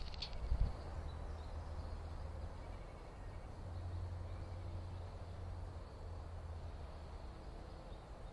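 Faint outdoor ambience picked up by a trail camera's microphone: a steady low rumble, with a short thump about half a second in.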